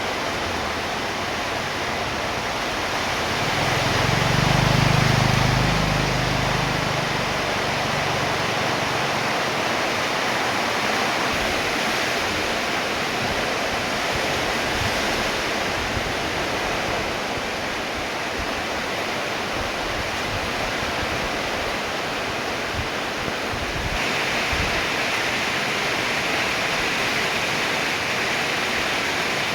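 Steady rainfall, an even hiss of falling drops. About four seconds in, a low rumble swells and fades over a few seconds.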